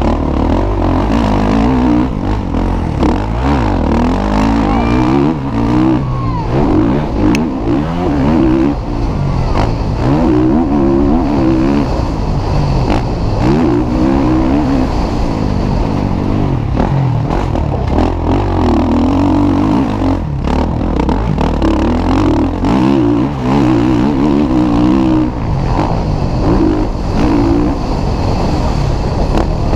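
Motocross bikes racing, their engines revving up and dropping back over and over as the riders work the throttle and shift around the track, more than one bike at a time.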